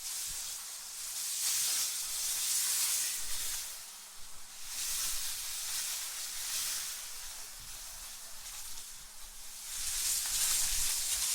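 AI-generated wind sound: a high, airy hiss that swells and dies back in gusts every few seconds, with no other sound over it.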